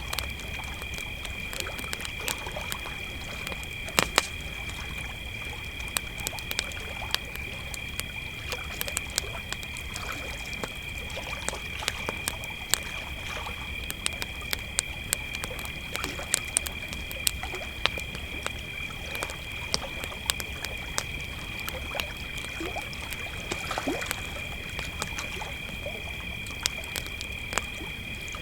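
Crickets chirring in a steady chorus at two high pitches, over a campfire crackling with frequent sharp pops and snaps, and a low steady rumble underneath.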